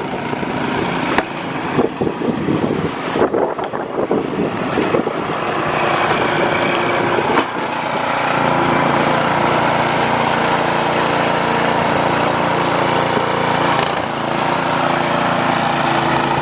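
Small gasoline engine of a snowblower, uneven at first, then running steadily from about eight seconds in.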